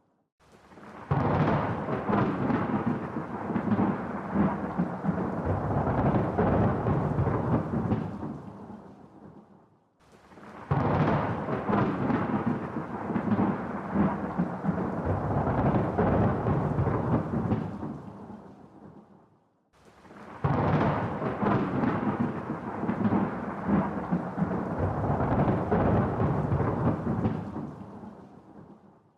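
Thunder: three separate rolls, each breaking suddenly, rumbling for several seconds and fading away, with near silence between them.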